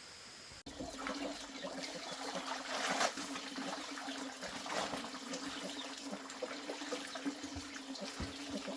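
Water trickling and splashing irregularly, over a steady low hum.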